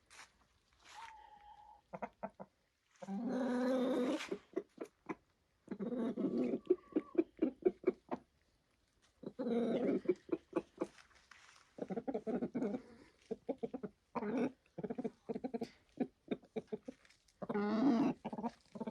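Chickens clucking and cackling: runs of quick, rapid clucks broken by longer drawn-out calls, repeating several times.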